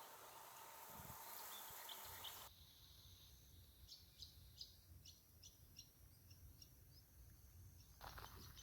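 Faint outdoor wetland ambience with a small bird giving a run of short, high chirps, about two or three a second, in the middle.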